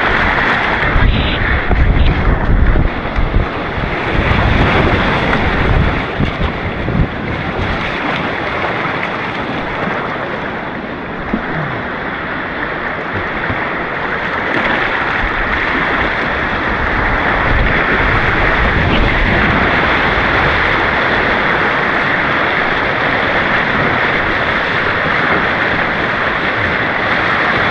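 Rushing white water on an artificial white-water course, a steady dense hiss, with low buffeting on the action camera's microphone through roughly the first eight seconds.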